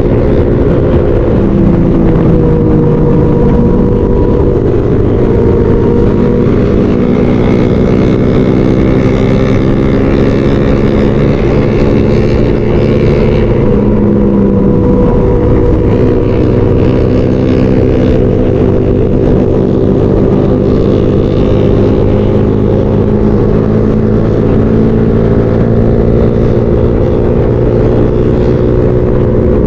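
Motorcycle engine running at cruising revs, its pitch drifting slightly up and down, over wind rush on the riding camera's microphone.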